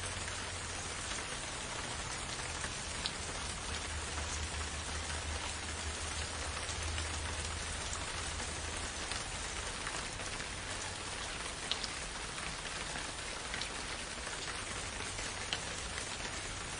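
Steady rain falling in a forest: a dense, even patter with a few louder single drops striking close by, over a low steady rumble.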